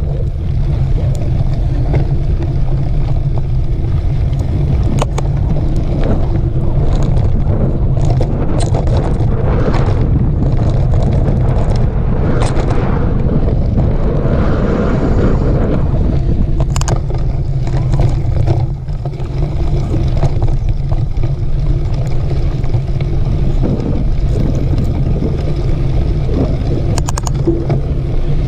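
Wind rushing over a camera microphone on a moving mountain bike: a steady low rumble broken by scattered clicks and rattles from the bike on the trail.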